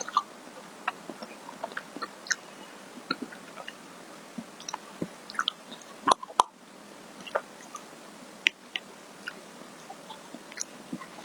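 Close-miked mouth sounds of someone eating ice cream: soft wet smacks and small clicks at irregular intervals, with two sharper clicks about six seconds in.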